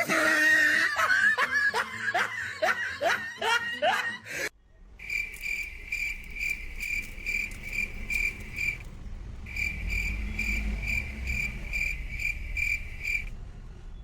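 Laughter for about four seconds, then a cricket chirping steadily at about three high chirps a second, with a brief pause partway through.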